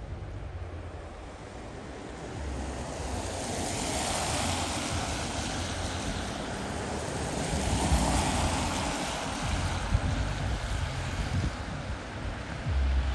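Rushing road noise of passing traffic, swelling to a peak about four seconds in and again about eight seconds in, over a low rumble of wind on the microphone; no siren or horn.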